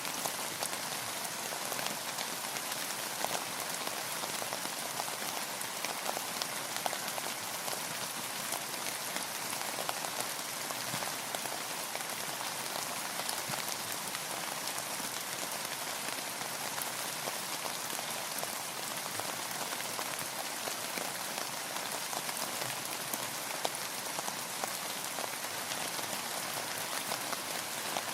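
Steady rainfall: an even hiss of rain with many small, distinct drop ticks hitting a surface.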